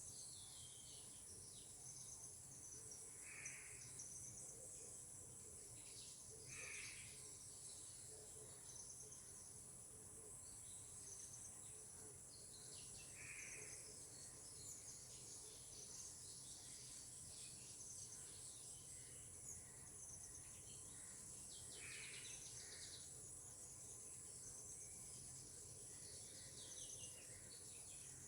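Faint forest ambience: a steady, high-pitched insect chorus of crickets, with a short bird call every few seconds.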